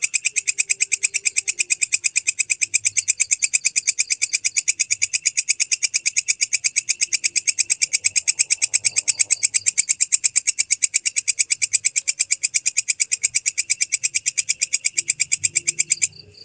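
Walang kecek (belalang kecek) insect calling in a fast, even train of sharp, high chirping pulses, used as a master song for lovebirds; the call stops abruptly near the end.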